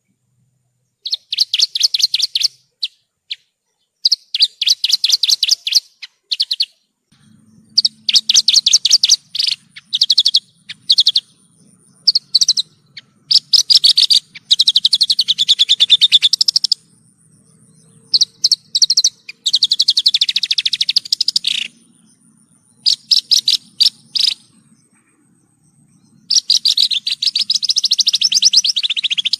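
Javan bush lark (branjangan) singing: phrases of very fast trilled notes, each one to a few seconds long, broken by short pauses.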